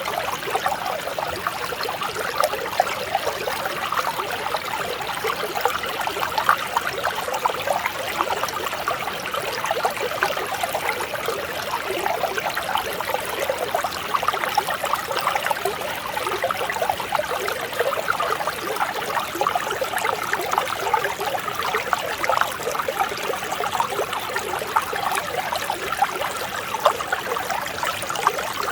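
Mountain stream flowing over rocks: a steady, even babble and trickle of water.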